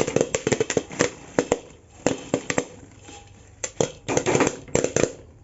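Popcorn kernels popping inside a covered pressure cooker: quick, irregular sharp pops that come thick at first, thin out around the middle and pick up again near the end.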